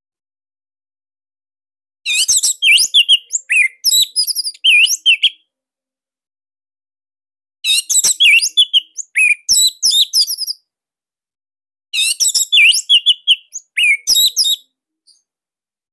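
Orange-headed thrush (anis merah) singing in three bursts of rapid, high, quickly sliding notes, each about three seconds long, with pauses between them.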